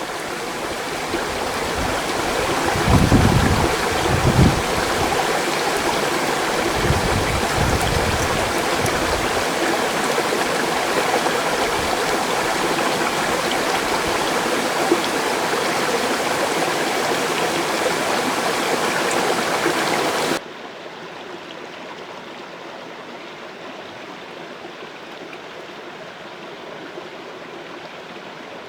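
Mountain stream rushing: a steady wash of flowing water, with a few low rumbles in the first several seconds. About 20 seconds in the level drops suddenly and the water continues quieter and duller.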